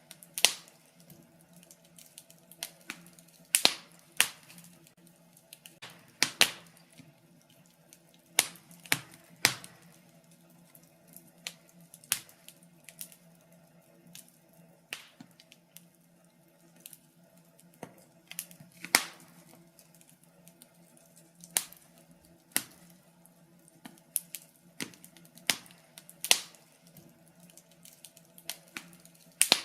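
Wood fire in a fireplace crackling, with irregular sharp pops and snaps, the louder ones every second or two, over a faint steady hum.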